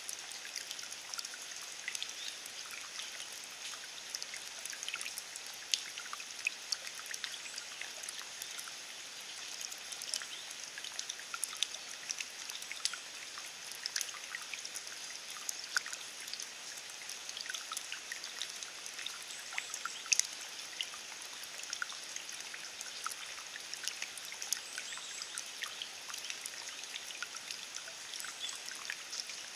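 Steady rain falling on wet grass and puddled ground, with many separate drops ticking and pattering in a continuous hiss.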